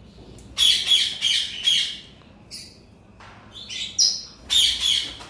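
Parrots squawking in short, rough calls: a run of four about a second in, a single small call, then another burst of squawks near the end.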